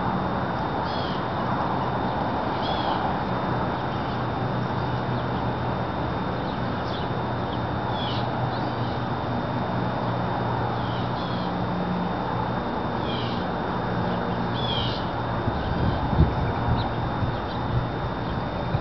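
A small bird chirping every second or two, short downward chirps, over a steady outdoor hiss with a faint low hum. A few low thumps near the end.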